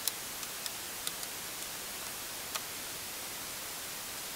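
A few light, irregular clicks of a small screwdriver and screws against the laptop's chassis as a screw is driven back in, over a steady hiss.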